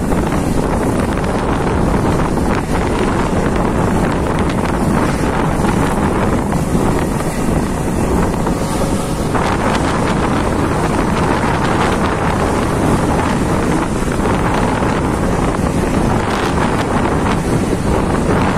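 Passenger train running at speed, a steady rumble and rush of air with wind buffeting the microphone. The rush grows stronger about nine seconds in.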